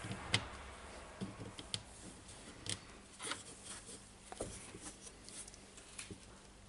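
Faint, scattered clicks and light knocks of small parts being handled, such as screws, nuts and plastic radio parts picked up and set down.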